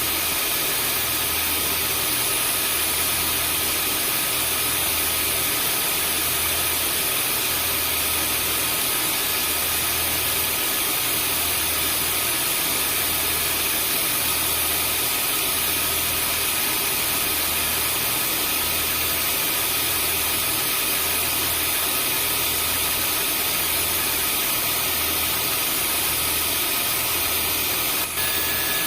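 Vacuum cleaner running steadily: a constant rushing noise with a few high, fixed whining tones over a low throb that pulses about once a second. The sound dips very briefly near the end.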